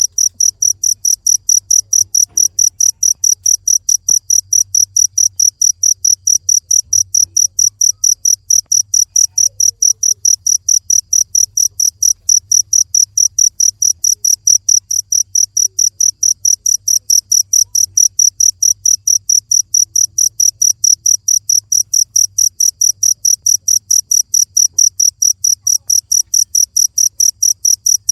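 Cricket chirping: a loud, high-pitched, evenly spaced chirp repeated about three to four times a second without a break.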